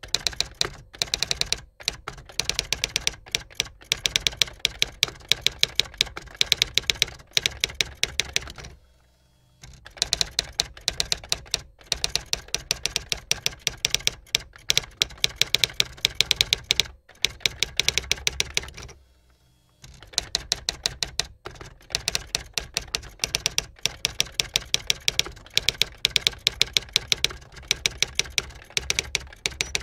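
Typewriter sound effect: rapid, continuous key clacks in long runs, broken by a few short pauses as each line of text is typed out.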